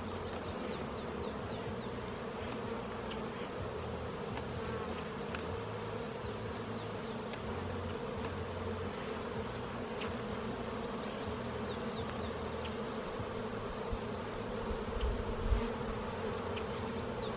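Honeybee colony buzzing steadily around an open hive, a dense even hum. A few low bumps come near the end.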